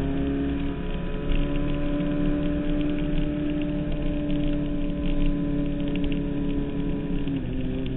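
Suzuki Hayabusa 1300's inline-four engine running steadily under way at high revs, heard from the bike itself, with a small rise in pitch about a second in and a brief dip near the end.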